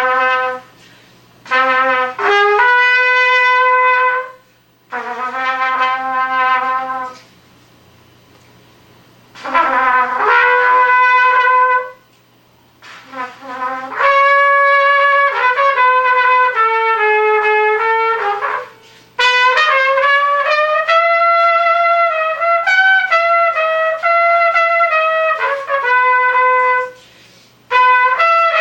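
Solo trumpet playing a slow melody of held notes in phrases, with brief pauses between phrases; a faint steady low hum sits underneath.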